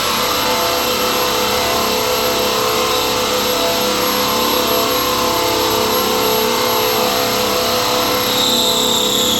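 Cordless drill running steadily under load, cutting a 1-inch hole into a hollow door frame. A higher whine joins near the end as the cut goes all the way through.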